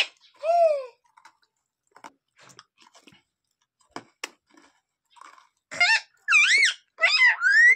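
A pet parrot gives a short, high call near the start and then a quick run of about four loud, high, arching calls near the end. In between there are soft clicks and crunching sounds.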